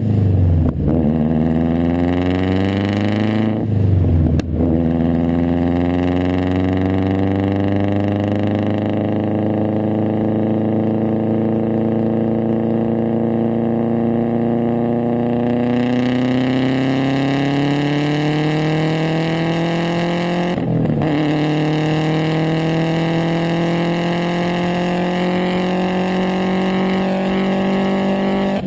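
A 2013 Subaru STI's turbocharged EJ257 flat-four, fitted with a Tomei unequal-length header, a catless downpipe and a Tomei cat-back exhaust, accelerating hard through the gears. The pitch climbs steadily and drops sharply at each upshift, about four seconds in and again about twenty-one seconds in.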